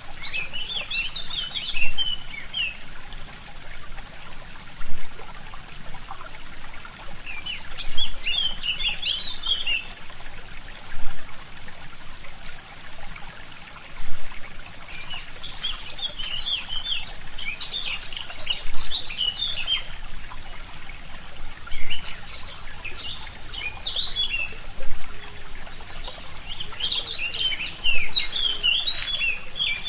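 Forest songbirds singing in short bursts of quick chirps, about five phrases, over a small stream trickling steadily.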